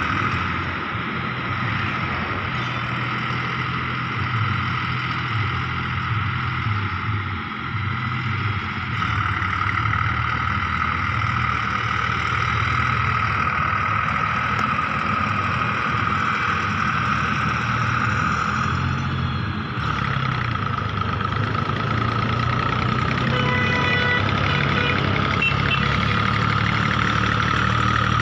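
Tractor diesel engine running steadily, with a steady high whine over the drone. A few short beeps come about three-quarters of the way through.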